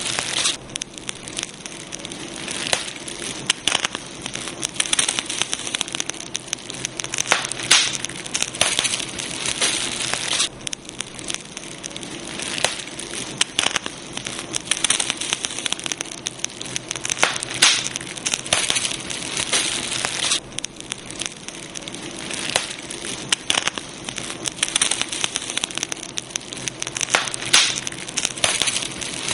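Campfire burning, with dense irregular crackles and pops over a steady hiss.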